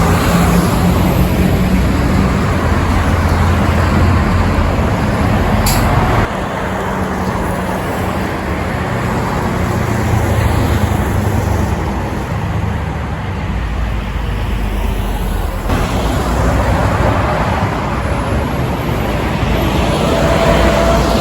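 Heavy diesel trucks driving past on a road: engines running under load over steady tyre and traffic noise. The sound changes abruptly twice, with a brief high hiss about six seconds in.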